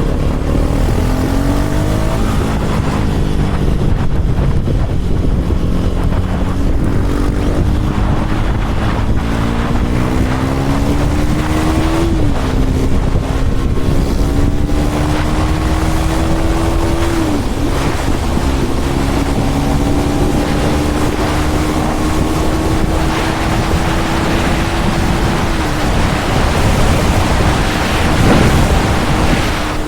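KTM Duke 390 Gen 3's single-cylinder engine through an Arrow aftermarket exhaust, accelerating while riding. It pulls up through the gears: the note climbs, drops at three upshifts and climbs again, then holds near the end. Heavy wind buffets the microphone throughout.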